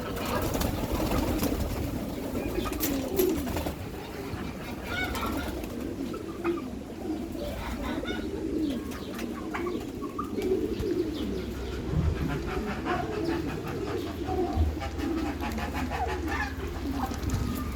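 Several domestic pigeons cooing continuously in overlapping, wavering low coos, with a low rumble underneath.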